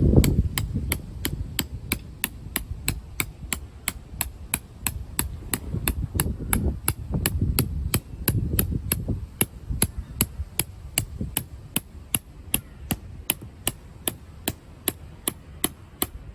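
Sharp, evenly spaced taps, about three a second, over a low rumble. The taps cut off suddenly at the end.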